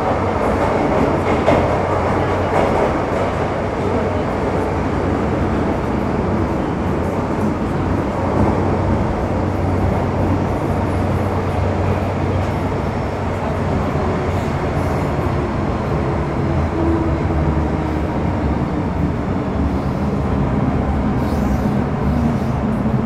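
Metro Cammell M-Train EMU (MTR C115, CM-Stock) with GEC GTO chopper control, running between stations, heard from inside the car. It is a steady rumble of wheels and motors over a low hum, and a faint motor tone slowly falls in pitch in the second half.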